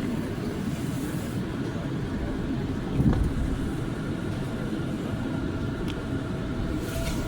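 R179 subway train running along the track between stations: a steady low rumble of wheels on rail, with one heavy clunk about three seconds in.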